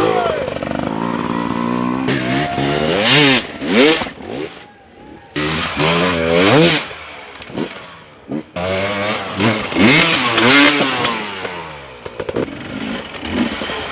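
Dirt bike engine revving hard and falling away repeatedly, with three big surges of throttle and the engine dropping back low between them.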